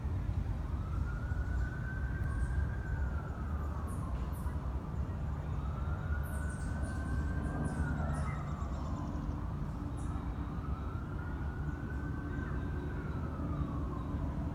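Emergency vehicle siren in a slow wail, rising, holding and falling about every four and a half seconds, three times, over a steady low traffic rumble. Short high bird chirps sound over it in the first half.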